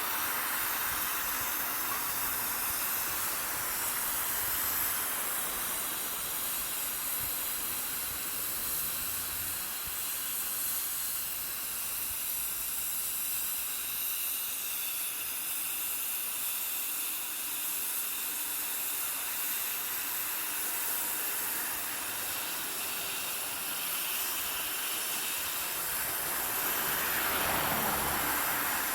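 Steam hissing steadily from the radiator of a Tofaş Doğan SL that is boiling its coolant: the car's cooling system is overheating. The hiss swells a little louder near the end.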